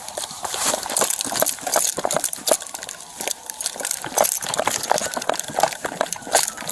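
Rapid, irregular clicking and rattling of an officer's duty gear and steps, picked up close by his body-worn camera as he moves on foot. A faint tone slowly falls in pitch in the background.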